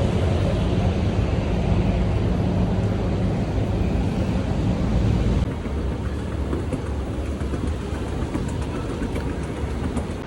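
Steady loud rumbling noise, like traffic or wind on the microphone, dropping a little in level about five and a half seconds in.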